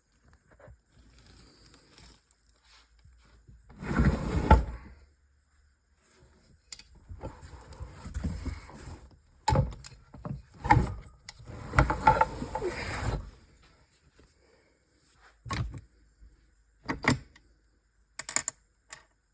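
Loose metal parts of a Honda FK8 six-speed manual transmission being handled on a bench: irregular clinks, knocks and scraping, loudest about four seconds in, then a few short sharp clicks near the end.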